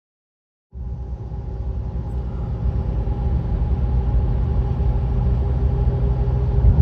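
Car running on the road, heard from inside: a steady low engine and road rumble with a faint drone, starting suddenly and growing slowly louder.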